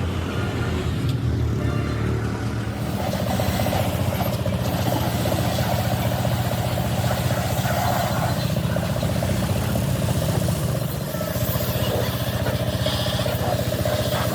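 An engine running steadily. A steady higher whine joins it about three seconds in.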